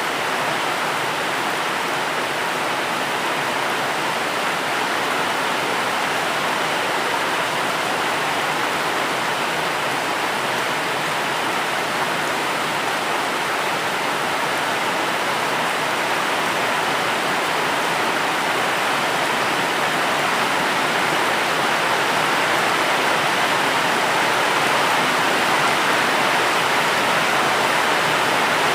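Steady, dense rainfall: an even hiss with no separate drops or thunder, slowly growing a little louder.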